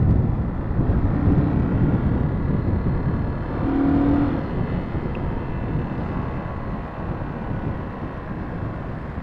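Motorcycle on the move, heard from the rider's camera: engine noise under a fluttering wind rumble on the microphone, easing a little after about four seconds. A short steady tone sounds twice, briefly.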